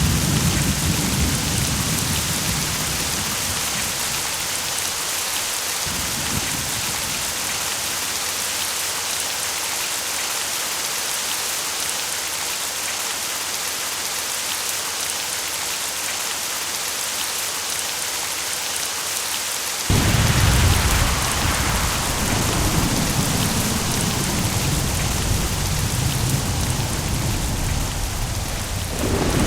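Steady rain with rolling thunder: a rumble dying away in the first couple of seconds, a short one a few seconds later, and a long low rumble that sets in suddenly about two-thirds of the way through.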